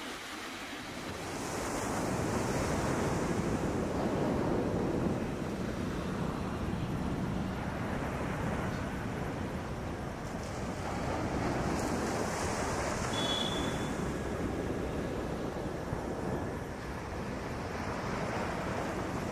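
Ocean surf at night: waves breaking and washing up the shore, the rush swelling and easing every few seconds.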